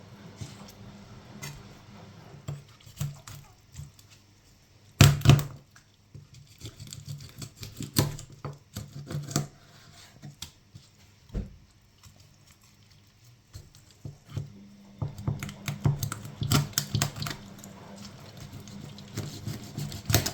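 Knife cutting up a raw whole chicken on a cutting board: scattered knocks and taps of the blade on the board and wet handling of the meat, with one sharp chop about five seconds in and a run of quick taps later on.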